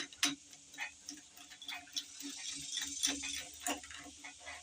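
Light, irregular metallic clicks and ticks of a socket and ratchet working the cylinder-head bolts loose on a Dodge 360 V8, over a faint steady hum.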